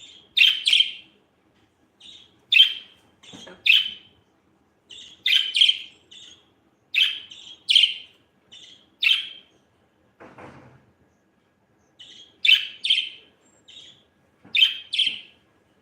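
Budgerigar chirping: short, sharp chirps, often in quick pairs, repeated about once a second, broken by a brief softer noise about ten seconds in.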